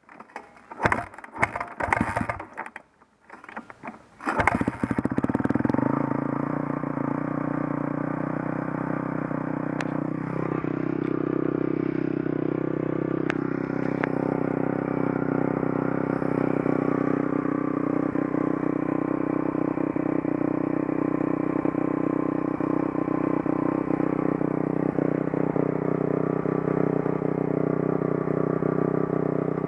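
Dirt bike engine starting: a few loud, uneven bursts of clatter in the first four seconds, then it catches and settles into a steady idle.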